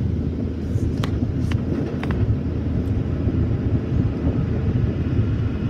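Automatic car wash machinery running, a steady low rumble heard from inside the car's cabin, with a few faint ticks about one to two seconds in.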